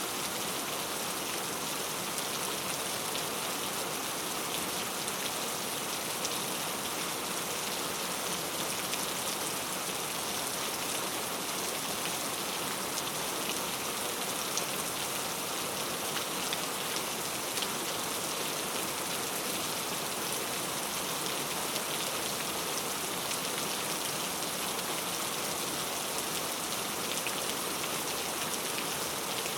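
Steady rainfall, a dense even hiss of rain with many small drop ticks and no thunder.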